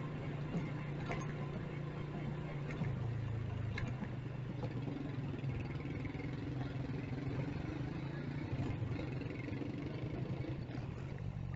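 Motorcycle engine running steadily while riding, its pitch dropping a little about three seconds in, with a few short clicks over the hum.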